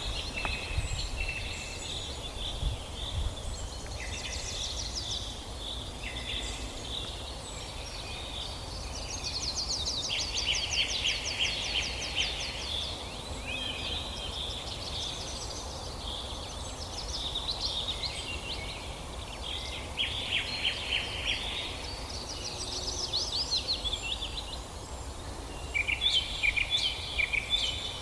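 Several songbirds singing together in a forest chorus: overlapping chirps and quick, rapid trills, with a loud burst of chirping near the end. A steady low rumble runs underneath.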